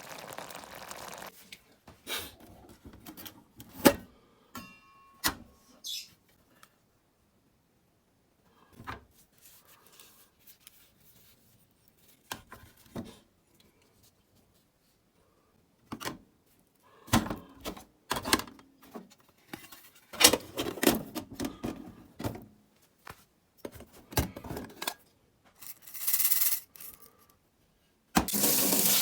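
Irregular knocks, clicks and rustles of camp cooking gear and ingredients being handled, with a brief squeak about four seconds in and busier handling in the second half.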